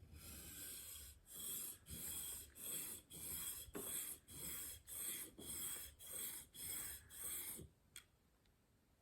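Steel broadhead edge, clamped in a KME sharpening jig, stroked back and forth on a Windex-wet 600-grit diamond plate: a rasping scrape about twice a second, a test pass to check a newly steepened bevel angle. The strokes stop near the end, followed by a single click.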